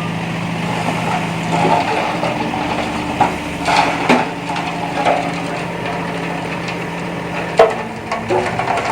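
Bulldozer engine running steadily while earth and rock are pushed, with scattered sharp cracks and clunks; the engine note shifts about two seconds in, and the loudest crack comes near the end.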